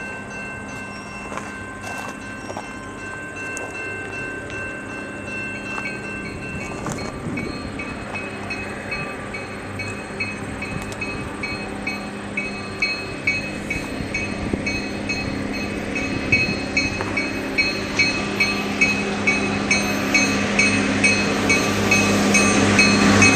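Railroad crossing bell ringing in steady, evenly spaced strokes while the diesel engines of an approaching Loram maintenance-of-way train grow steadily louder, the engine hum loudest as the train reaches the crossing near the end.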